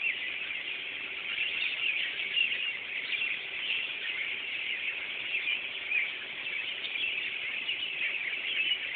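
A large flock of birds chirping all at once: a dense, continuous chatter of many overlapping high calls with no break.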